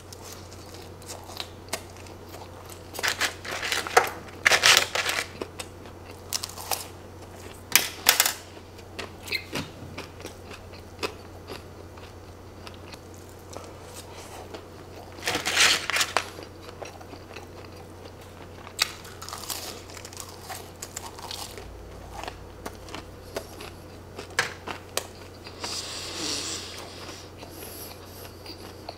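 A person eating cheese-covered fries, chewing close to the microphone, with irregular louder mouth sounds, the loudest about four seconds in and again around sixteen seconds.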